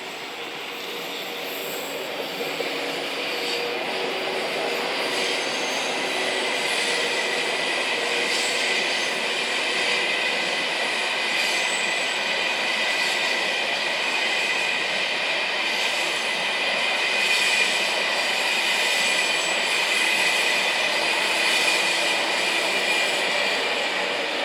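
Train rolling past with its wheels squealing against the rails: a steady high-pitched squeal over the rumble of the wheels. It grows louder over the first few seconds and eases off near the end.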